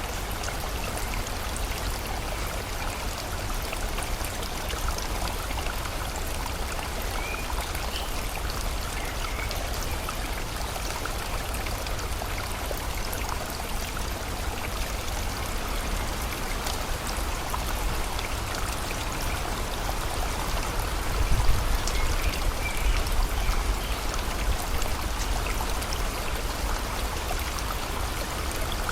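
A river or stream flowing steadily with rain falling, a continuous rush of water with scattered drop ticks. Faint short bird chirps come twice, and a low rumble swells about two-thirds of the way through.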